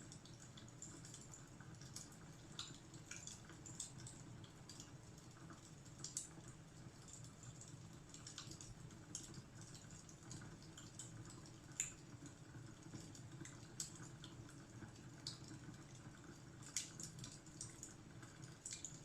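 Wood fire crackling: irregular sharp snaps and pops scattered over a faint, steady low rumble.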